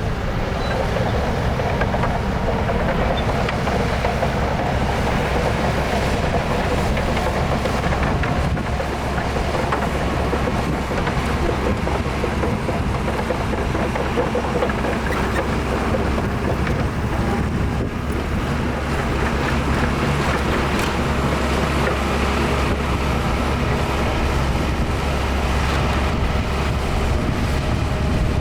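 Heavy diesel earthmoving machinery running steadily with a deep, even rumble, no sharp changes.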